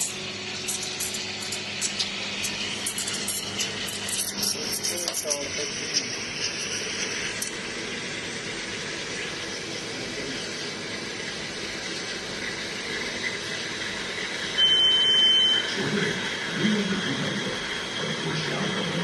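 Several seconds of rapid clicks and knocks, then a steady hiss. About two-thirds of the way through comes a single high electronic beep about a second long, the loudest sound, followed by low voices.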